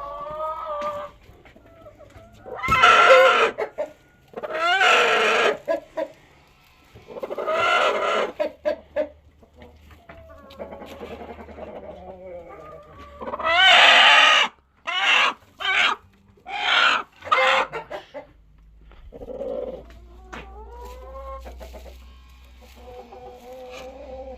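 Chickens clucking and calling, with several loud squawking calls of about a second each and, past the middle, four short calls in quick succession, over quieter clucking.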